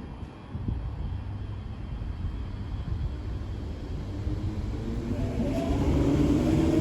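Passenger train rumbling at the platform and growing steadily louder, with a rising whine from its motors coming in over the last two seconds.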